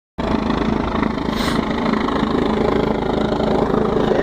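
Helicopter running: loud, steady engine and rotor noise with a constant low hum, and a brief hiss about a second and a half in.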